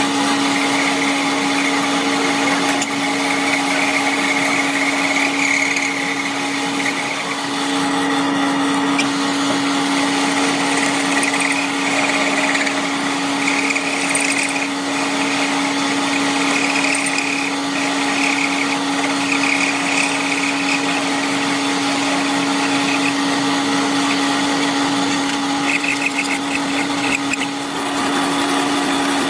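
A workshop power tool or machine running steadily, a constant hum under a rushing noise, with a higher whine that comes and goes several times.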